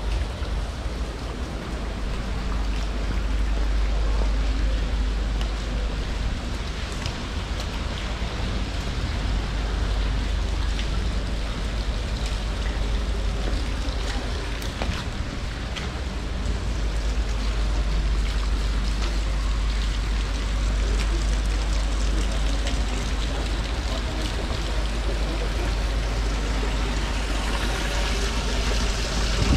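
Steady wash of light rain and running water on a wet cobbled street, over a low wind rumble on the camera microphone.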